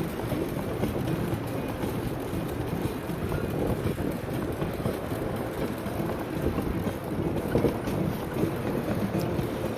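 Wind noise on the microphone during a bicycle ride, a steady rough noise with small swells in loudness.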